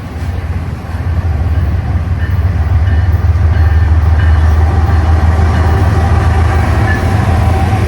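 Train passing close by: a heavy low rumble that builds over the first few seconds and then holds steady.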